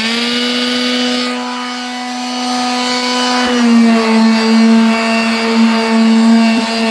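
Electric car polisher (buffer) spinning up to a steady motor whine. About halfway through, its pitch drops slightly and the sound gets louder and uneven, as a motor does when it comes under load.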